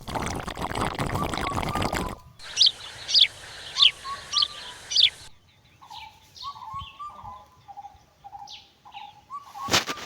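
Small birds chirping. A steady rushing noise comes first. Then about five loud, sharp chirps follow one another, and after that softer, lower calls.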